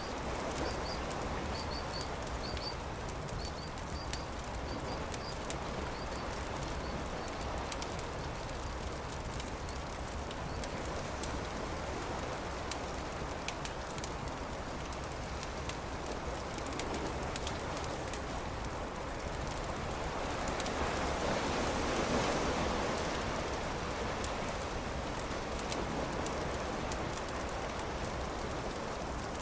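Campfire crackling over a steady wash of surf, with a wave swelling up and falling away about two-thirds of the way through. A few short high chirps, like a small bird, come in the first few seconds.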